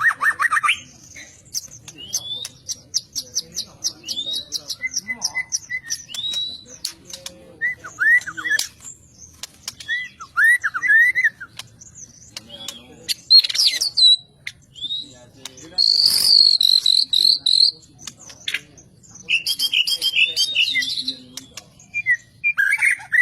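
White-rumped shama (murai batu) singing a long, varied song of gliding whistles and fast runs of repeated high notes, broken by a harsh, buzzy phrase about two-thirds of the way through.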